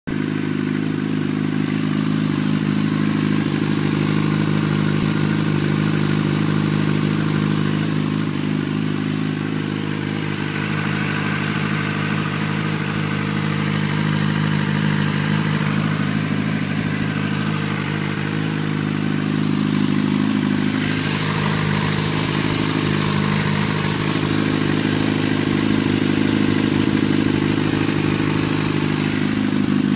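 Yamaha YZF-R6 (RJ05) inline-four engine running at a steady idle, with a mechanical noise in it that the owner calls weird and cannot identify.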